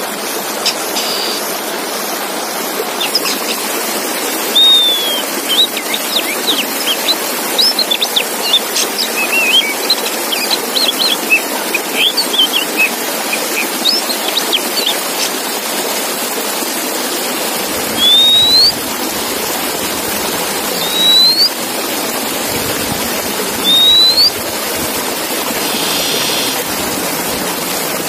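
Oriental magpie-robin (kacer) singing over a steady rush of running water: a quick run of varied chirps and whistles for several seconds, then single rising whistles every few seconds.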